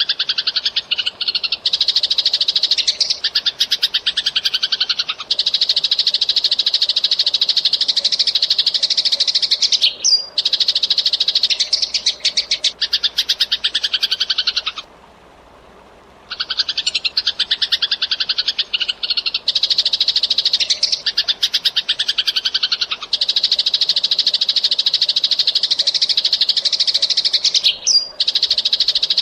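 Eurasian tree sparrow (burung gereja) singing in fast, dense runs of rapid chirps, with a break of about a second and a half midway, after which the same run of chirping seems to repeat.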